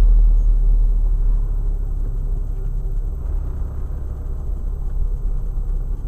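Low road and engine rumble heard inside a 2008 Chevrolet Cobalt's cabin while driving. It eases off over the first two seconds, then holds steady.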